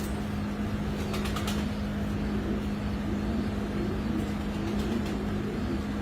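Domestic pigeons of the Mosul Wada'i breed cooing over a steady low hum, with a few sharp clicks about a second in.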